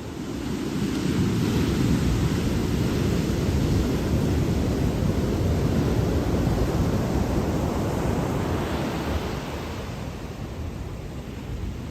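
Ocean surf: a wave washing in, the noise of the water building over the first couple of seconds and easing off near the end.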